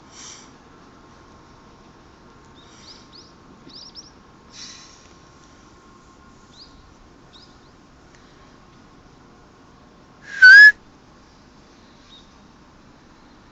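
A single short, very loud high-pitched whistle with a slight bend in pitch about ten and a half seconds in, over a low background with a few faint bird-like chirps earlier on.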